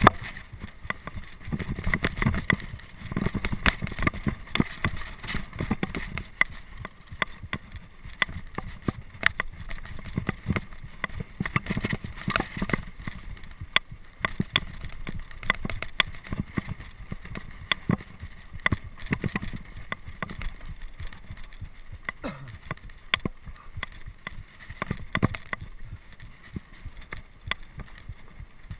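Bicycle rattling and knocking over rough ground on a fast descent, with irregular jolts and wind buffeting the microphone.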